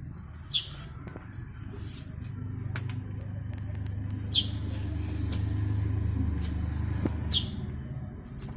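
A low engine rumble swells and fades over several seconds, like a vehicle passing by, while a small bird gives three short, falling chirps.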